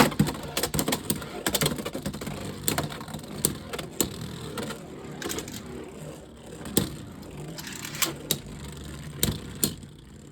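Two Beyblade X spinning tops whirring in a plastic stadium, clacking sharply and irregularly against each other and the stadium walls.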